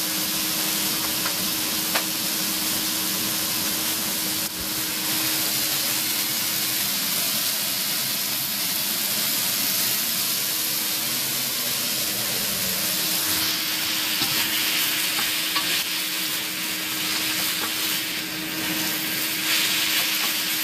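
Food frying in a pan, sizzling with a steady hiss. A low steady hum runs underneath.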